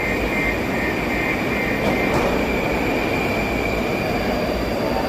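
Moscow Metro train running through the station: a steady rumble with a high whine that fades out about four seconds in.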